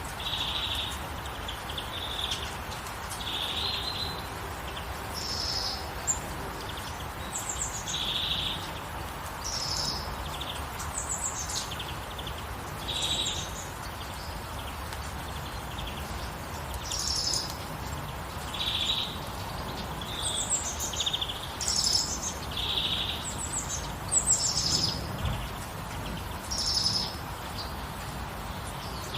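Songbirds chirping and singing in short high phrases every second or two, some higher and some lower in pitch, over a steady hiss of gentle rain.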